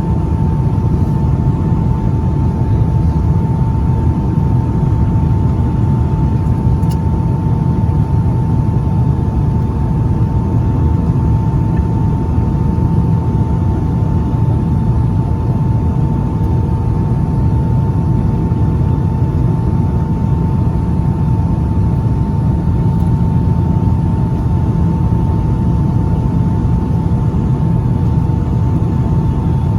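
Cabin noise inside a Boeing 757-200 airliner: a steady low rumble of engines and airflow with a constant high whine on top, unchanging throughout.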